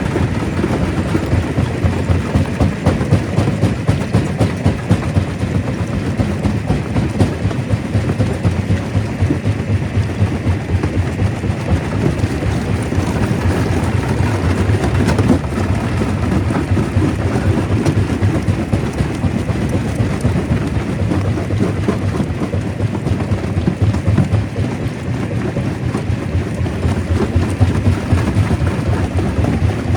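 Stone crusher running, with a steady low rumble and a dense, continuous rattle of rock being broken and tumbling through the machine.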